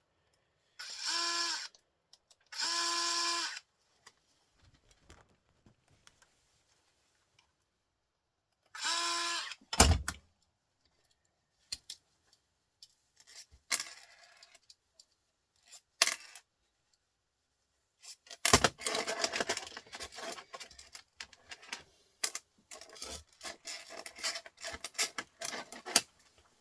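Power drill-driver whirring in three short runs of about a second each, backing out the long screws from a printer motor assembly. A sharp knock comes just before the halfway point, and over the last third small metal parts clink and rattle as they are handled.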